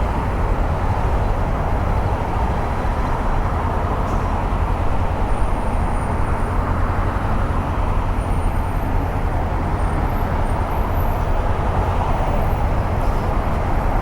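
Steady rush of wind and road noise from riding a 2014 Honda CB500X motorcycle in highway traffic, with no sudden events.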